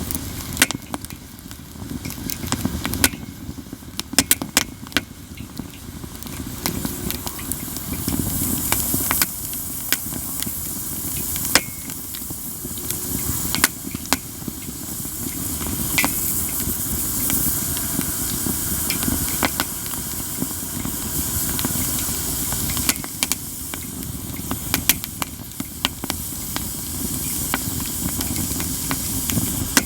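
Katsura wood campfire crackling, with frequent sharp pops and snaps over a steady low rumble of flames. A hiss rises and grows louder about eight seconds in.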